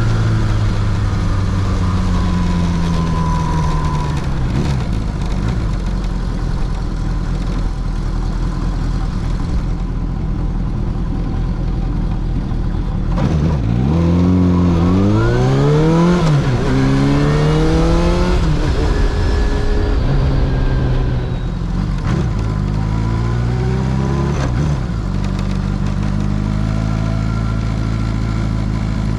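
Kawasaki Zephyr 750's air-cooled inline-four engine heard from the rider's seat. The revs fall at first and then run low and steady. About halfway they climb in two steps, dropping at each gear change, then ease off, with a shorter rise again shortly before the end.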